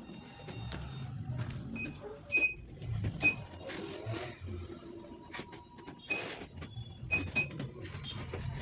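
Dental chair's lift mechanism running as the chair lowers: a low motor hum with irregular clicks and knocks and several short, high squeaks, the noise that the unit makes on the way down.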